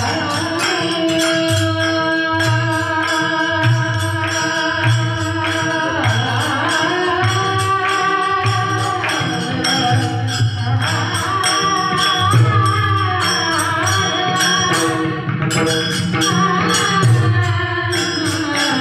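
Devotional kirtan singing: a solo voice holding long, sliding alap-style notes over a steady beat of drum and jingling percussion.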